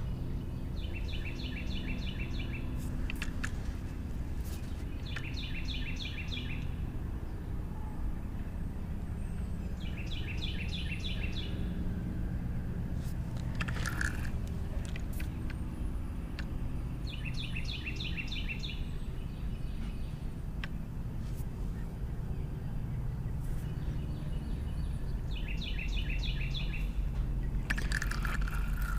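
A songbird singing a short trilled phrase, repeated five times a few seconds apart, over a steady low outdoor rumble with a few faint clicks.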